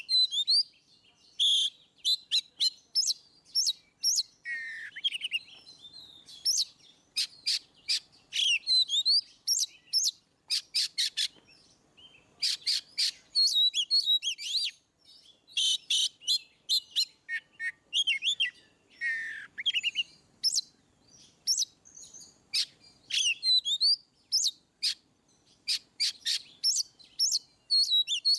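Oriental magpie-robin (kacer) singing loudly in full, open 'ngeplong' song: fast runs of sharp, clear whistled notes and chirps with quick pitch sweeps and a few falling slurs. The song comes in phrases separated by short pauses.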